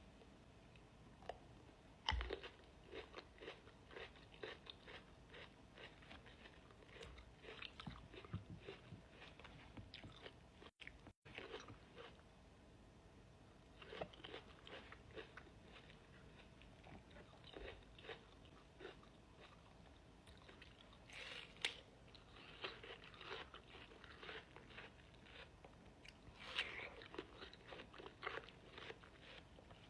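Fresh fruit being bitten and chewed close to the microphone. It comes in several bouts of quick small clicks with pauses between, the first starting about two seconds in.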